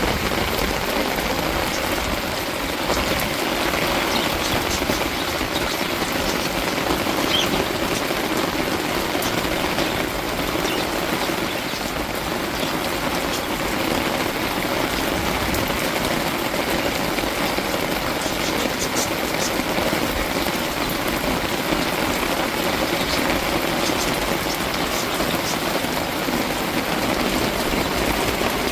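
Steady rain falling, an even, unbroken noise.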